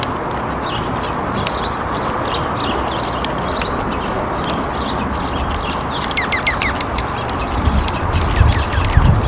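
Small songbirds chirping in short, repeated calls over a steady rushing background noise, with a quick run of falling whistles about six seconds in. Low thumps come in near the end.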